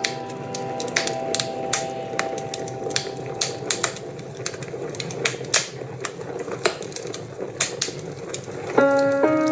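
Wood fire crackling with irregular sharp pops and snaps, while a lingering musical chord fades out in the first seconds; soft instrumental music comes back in near the end.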